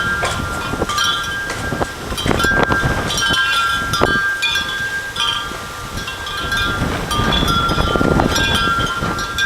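Strong wind buffeting the microphone in uneven gusts, with clear ringing chime tones sounding on and off.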